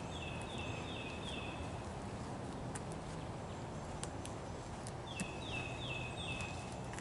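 A songbird sings twice, each time a quick run of four falling notes, once at the start and again about five seconds in. Under it there is a steady low background rumble and a few faint scattered clicks.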